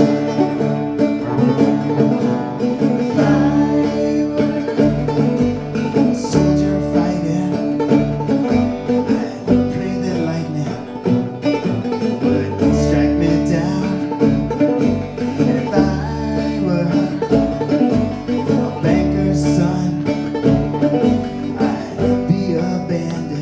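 Acoustic band playing an instrumental break between sung verses: plucked strings over an upright bass playing changing low notes.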